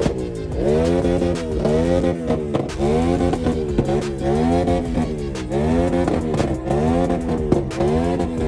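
A car engine being revved over and over, its pitch rising and falling back about once a second, over a steady low hum.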